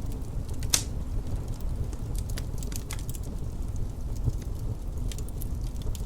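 Wood fire crackling: irregular sharp pops and snaps, the loudest about a second in, over a steady low rumble.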